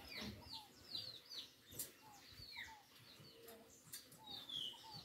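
Faint chirping of birds: many short, falling notes, several a second.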